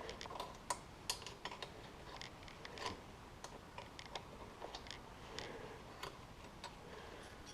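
Irregular light clicks and taps of hand work on a snowmobile exhaust, as of tools and small metal parts being handled.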